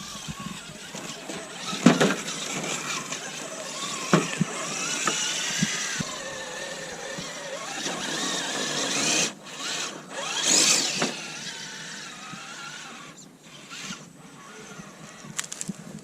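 Element Enduro Sendero SE RC crawler's electric motor and geared drivetrain whining, the pitch rising and falling as the throttle changes. A couple of sharp knocks, about two and four seconds in, as the truck bumps over the concrete.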